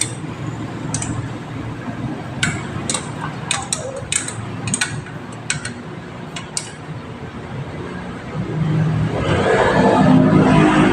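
Scattered sharp clicks and clinks over a low steady engine hum; about eight seconds in, the engine sound swells louder.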